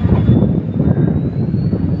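Diesel passenger train running, a steady low rumble.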